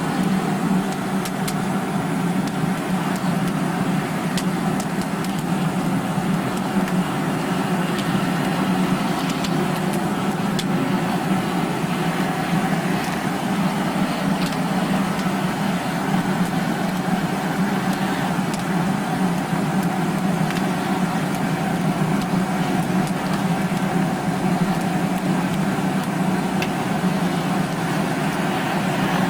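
Hoover vacuum cleaner running steadily as a blower, forcing draught into a wood fire: an even motor hum with a strong low drone, with scattered faint crackles.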